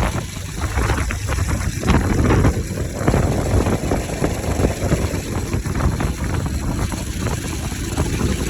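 Bajaj Pulsar RS 200 single-cylinder engine running with its air filter removed, the sound swelling up and down a few times.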